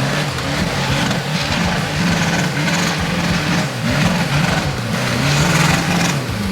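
Off-road 4x4's engine revving hard under load on a muddy hill climb, its pitch rising and falling again and again as the driver works the throttle, with bursts of hiss over it.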